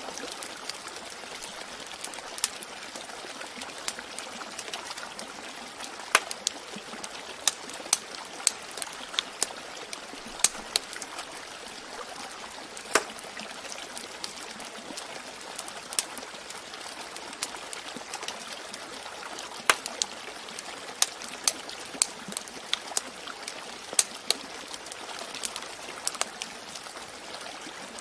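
Steady trickling, running water, with sharp crackles and pops from a wood fire at irregular intervals over it.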